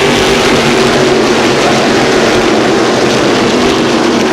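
NASCAR Whelen Modified race cars' V8 engines running on the track: a loud, steady blend of several engines.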